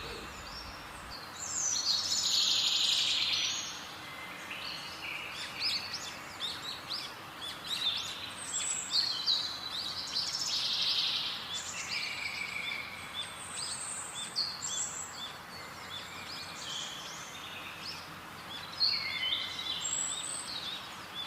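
Birds chirping and calling over a steady background hiss, with many short calls and louder bursts of calling about two seconds in and again around ten seconds in.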